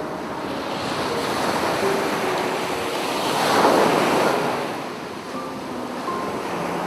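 Sea waves washing onto a beach: a steady surf wash that swells to a louder break about halfway through, then recedes.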